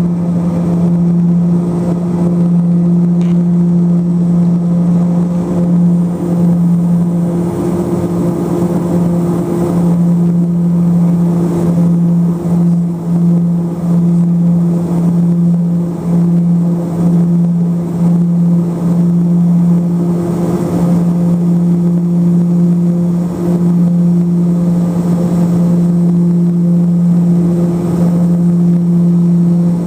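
Let L-410 turboprop's engines and propellers running steadily, heard from inside the cabin: a constant low propeller hum with its overtones over the rush of engine and air noise.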